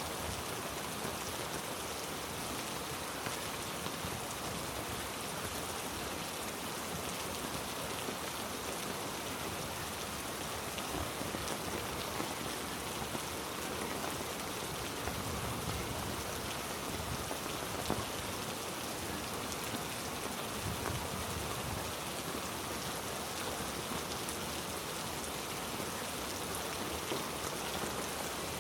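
Heavy rain falling steadily, a dense hiss with many individual drops ticking.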